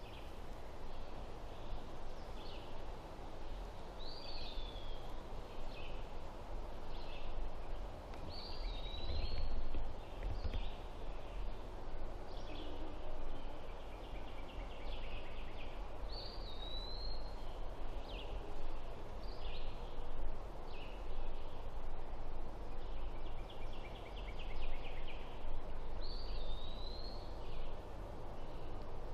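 Songbirds calling in woodland: short whistled notes that curl up and down, repeated every few seconds, mixed with quick rapid trills. A steady low rumble runs underneath.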